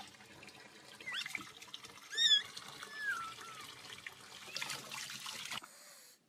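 A cat giving several short, high meows, the loudest about two seconds in, over a faint steady hiss.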